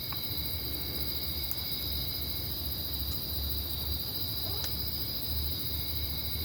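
Crickets trilling steadily and high-pitched, over a low rumble, with a few faint clicks.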